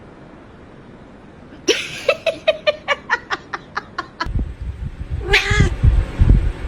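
A domestic cat makes a rapid run of short chirps, about five a second, then meows once, about five and a half seconds in, over a low rumbling noise.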